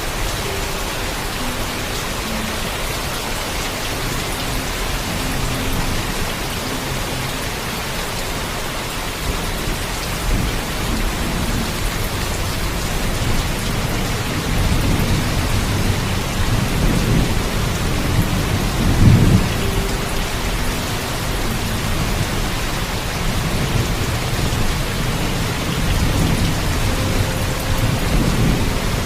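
Heavy, steady rainfall with rolling thunder. The thunder rumbles in from about a third of the way through, is loudest a little past the middle, and swells again near the end.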